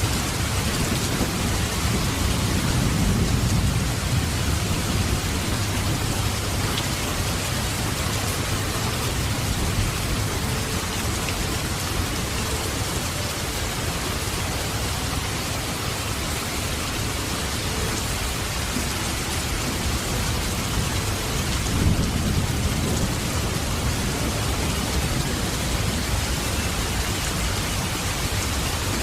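Heavy rain falling steadily, with low rolls of thunder twice: a few seconds in and again a little past the middle.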